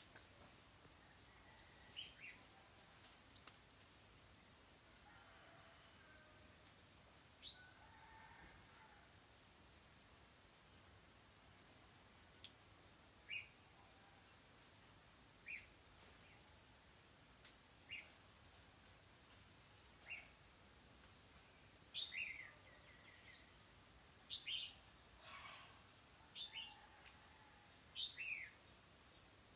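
An insect chirps in rapid, even pulses in long trains, breaking off for a second or two several times. Short, falling bird chirps come and go underneath, more of them in the second half.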